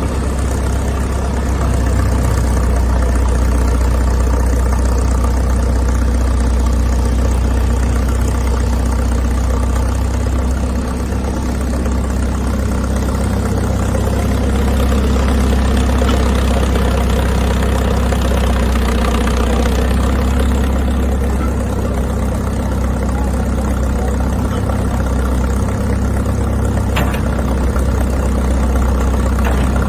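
Large old engine idling steadily.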